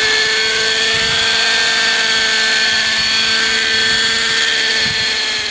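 Hirobo Sceadu model helicopter's .50-size two-stroke nitro engine running steadily with a high-pitched whine, turning below its proper revs because the fuel mixture is off. The sound starts to fade about five seconds in.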